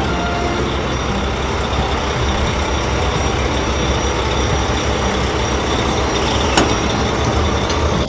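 Heavy truck engine running steadily with a dense, noisy rumble and one sharp click about six and a half seconds in, cut off abruptly at the end.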